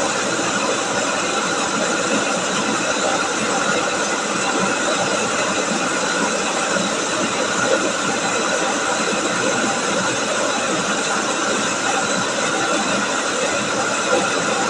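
Chao Phayu rice milling machine running steadily while milling rice, a continuous dense mechanical whir with a few steady tones.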